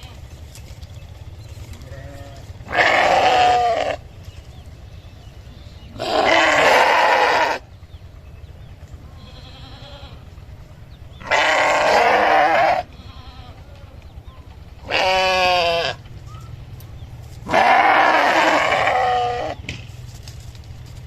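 Sheep bleating: five loud bleats of one to two seconds each, a few seconds apart, over a steady low hum.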